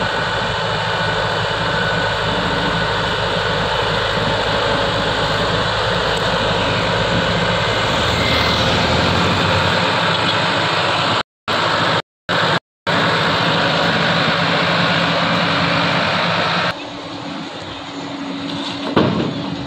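A heavy vehicle engine runs loudly and steadily, broken by three short silent gaps past the middle. In the last few seconds it is quieter, with a single sharp knock near the end.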